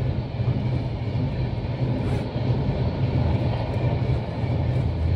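Passenger train coaches rolling past: a steady rumble of wheels on the rails.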